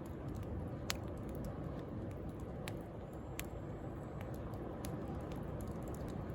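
Wood bonfire crackling with scattered sharp pops, the loudest about a second in, over the steady wash of sea waves.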